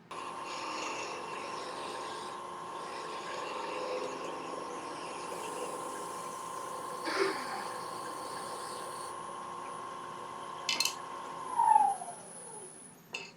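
Wood lathe running with a steady motor whine while a parting tool cuts the turned piece off, with a sharp knock about seven seconds in and another near eleven seconds. Near the end the lathe is switched off and the whine falls in pitch as it spins down.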